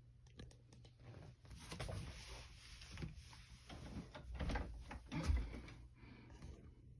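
Handling noise: scattered clicks, knocks and rustling, with dull thumps about four and a half and five and a half seconds in.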